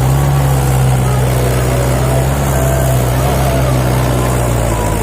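Tractor diesel engine running hard and steady under heavy load while pulling a fully loaded soil trolley.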